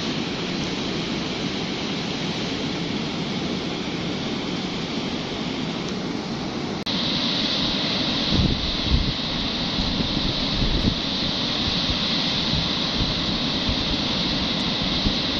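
Rushing river water, a steady loud wash of whitewater, with low wind thumps on the microphone. About seven seconds in the sound changes abruptly and becomes brighter and hissier.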